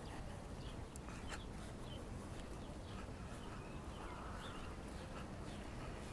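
Small birds chirping in short, scattered calls over a steady low rumble of distant city traffic.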